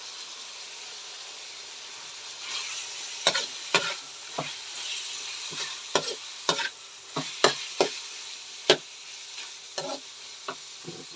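Pork liver sautéing with garlic and onion in a frying pan, sizzling steadily while being stirred. From about two and a half seconds in, the stirring utensil knocks and scrapes against the pan in quick irregular clicks.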